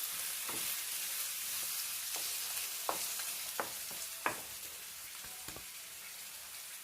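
Marinated chicken sizzling in hot coconut oil in a pan: a steady frying hiss that slowly quietens, with several sharp pops or clicks, the loudest about four seconds in.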